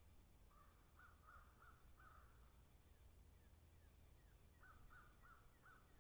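Faint, distant crow cawing: two runs of four caws, the second about four and a half seconds in, with faint high chirps of small birds.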